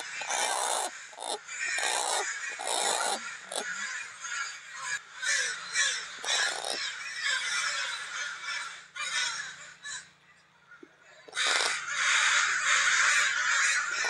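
Crows cawing harshly over and over, the alarm calling of crows over a small falcon that has caught a young crow. The calling dies down briefly about ten seconds in, then comes back loud and nearly unbroken.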